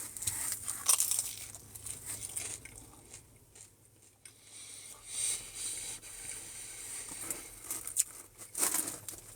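Eating sounds: biting and chewing pizza, with crunching and some crinkling of the packaging.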